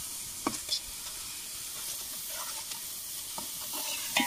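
Chicken pieces sizzling and frying in masala in a large metal pot while a metal ladle stirs them, scraping and knocking against the pot a few times.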